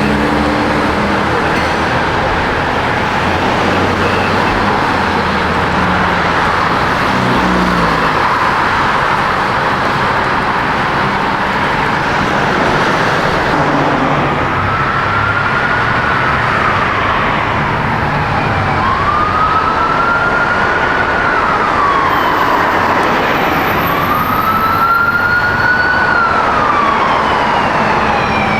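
Steady vehicle engine and road noise. From about halfway through, an emergency vehicle's siren wails, rising and falling slowly, one cycle every four to five seconds.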